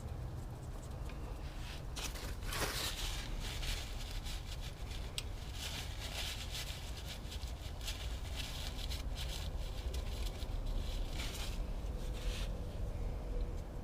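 Hands and tools working at the oil pan drain plug: irregular scraping and rustling with a few sharp clicks, over a steady low hum.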